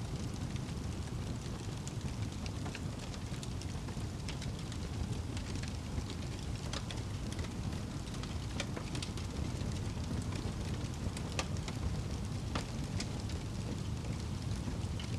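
Wood fire crackling, with irregular sharp pops scattered over a steady low rumble.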